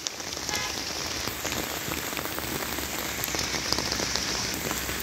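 Steady rain falling on a garden and wet paving, a dense, even patter of drops.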